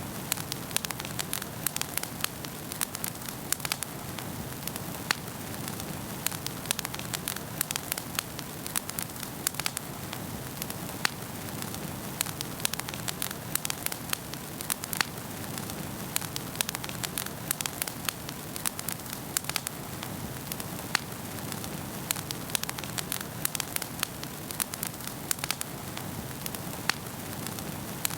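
Wood fire burning in a fireplace, crackling and popping irregularly over a steady low hiss of flames.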